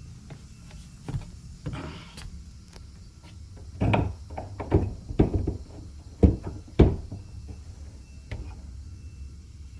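A quick series of knocks and thuds, about eight in three seconds, the last two the loudest, over a steady low rumble.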